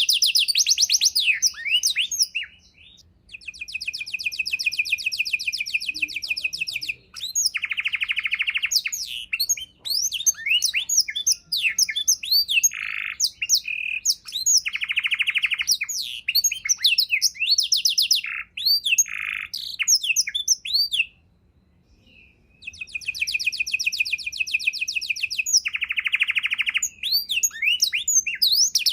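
Domestic canary singing a long, varied song of fast chirping phrases and rapid buzzy trills, with short pauses about three seconds in and again around twenty-one seconds.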